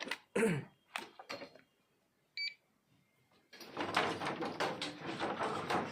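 A few handling clicks, then a single short high electronic beep, then a couple of seconds of rustling and scraping as the battery pack and test gear are handled.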